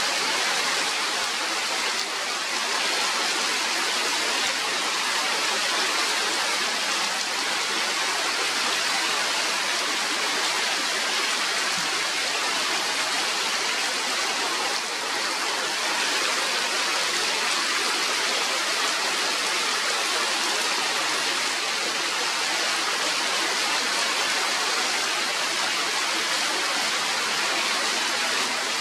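Steady rain pouring down on forest foliage, an even, unbroken hiss.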